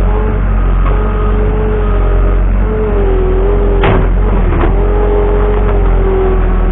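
Skid steer running steadily with a whine whose pitch sags briefly around the middle, and two sharp knocks about half a second apart just after the sag.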